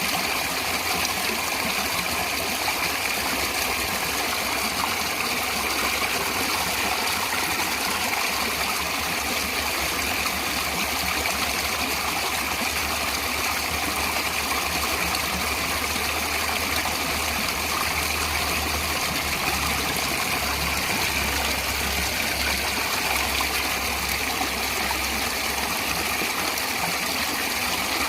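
Natural running water flowing steadily: a continuous rushing, splashing hiss with a low rumble underneath that grows stronger past the middle.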